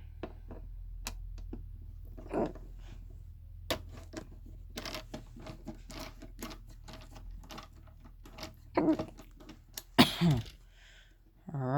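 Irregular clicks and taps of hand tools and loosened parts against a subwoofer's casing as it is taken apart, with a few short grunts.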